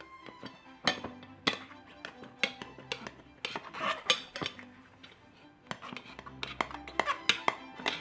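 Metal tools clinking and knocking against metal wheel parts, a sharp strike every half second or so, over background music.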